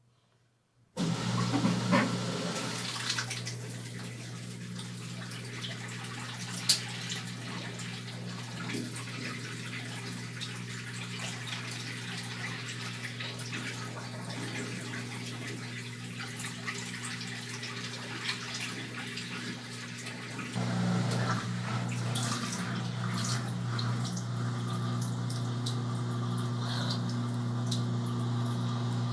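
Brastemp Tira Manchas Pro 12 kg washing machine starting to fill: a sudden start about a second in, then water pouring into the tub over a steady low hum, getting louder about twenty seconds in.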